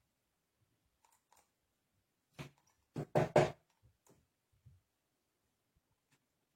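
A quick run of four sharp knocks and clicks a little over two seconds in, with a few faint ticks around them.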